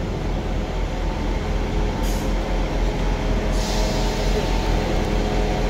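Class 158 diesel multiple unit drawing into the platform, its diesel engines running with a low, steady rumble. A brief hiss of air comes about two seconds in, and a longer hiss starts about three and a half seconds in as the train slows to a stop.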